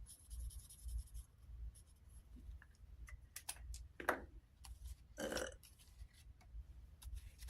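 Faint handling of paper: rustling and small clicks as dollar bills and a paper savings chart are handled at a table, with two brief soft murmurs about 4 and 5 seconds in.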